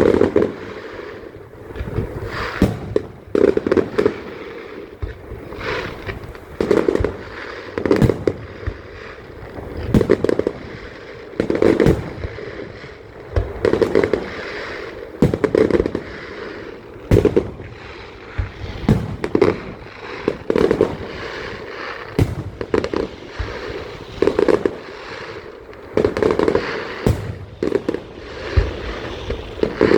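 Aerial fireworks exploding in quick succession, a sharp bang every second or so, each followed by a crackle.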